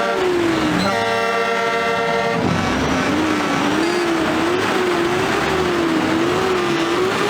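Truck air horns blasting: one blast cuts off just at the start and a second runs from about one to two and a half seconds in. After it comes a wavering, siren-like tone that rises and falls about twice a second.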